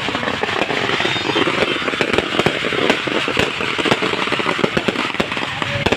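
Fireworks going off: a dense, continuous run of rapid crackling pops.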